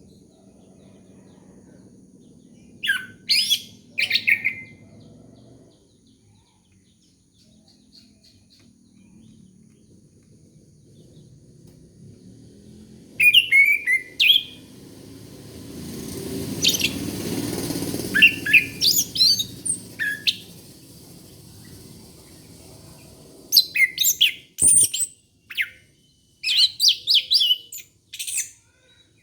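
Orange-headed thrush (anis kembang) singing in four bursts of quick, varied, high whistled phrases separated by pauses. A low rushing noise swells and fades about halfway through.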